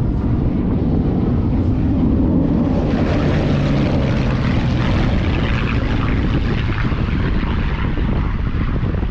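Propeller airplane engine flying past, swelling about a third of the way in and easing off near the end, over wind buffeting the microphone.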